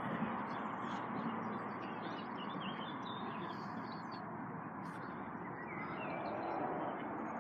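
Small birds chirping and twittering in short scattered calls over a steady outdoor background hiss, with one brief click about five seconds in.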